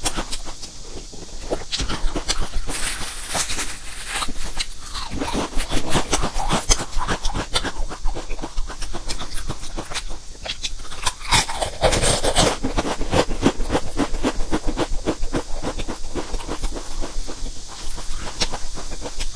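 Close-miked chewing of crisp stacked chips and sliced sausage: a dense, steady run of crunchy crackles, with two louder noisy stretches about three and twelve seconds in.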